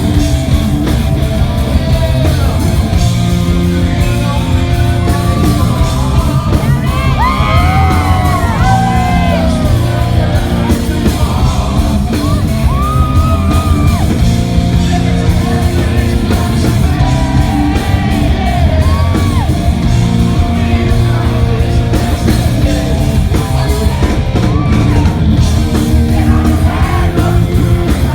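Rock band playing loud and live in a large hall, with a voice singing and yelling over the band.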